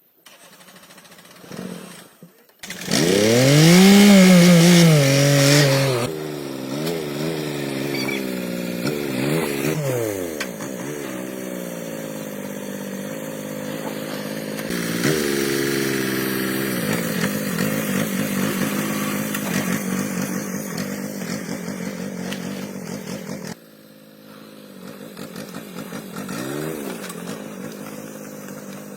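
Handheld power tool motor running in several edited stretches, its pitch repeatedly sagging and recovering.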